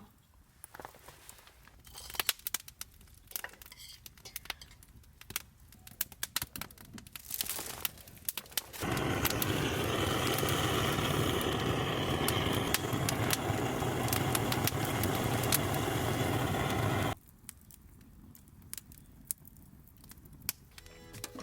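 Wood fire crackling, with sparse sharp pops. About nine seconds in, a louder steady rushing noise cuts in abruptly, then cuts off just as abruptly some eight seconds later.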